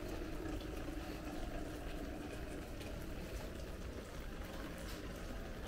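Heavy rain falling steadily: a constant hiss of rain with scattered drops pattering, over a low rumble.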